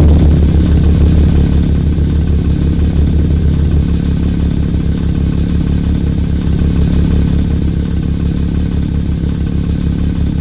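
Car engine running at a steady idle, its low exhaust note pulsing evenly and easing off slightly in loudness.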